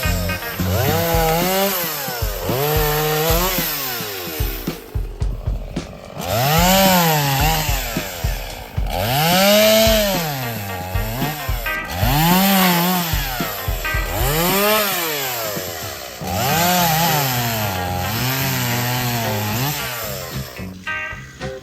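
Stihl chainsaw running and being revved over and over, its pitch climbing and dropping every second or two. There are a few abrupt breaks.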